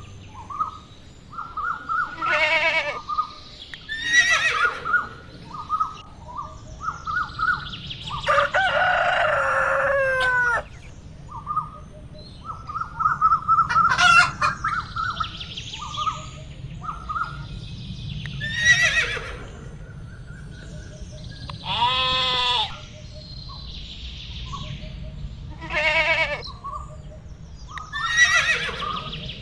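Chickens clucking in quick short calls, with a rooster crowing several times, each crow sliding down in pitch; the longest crow comes about a third of the way in.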